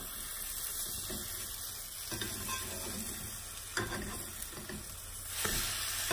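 Omelet frying in hot oil in a nonstick pan, a steady sizzle, with spatulas scraping and knocking against the pan as the omelet half is turned over. The sizzle swells near the end.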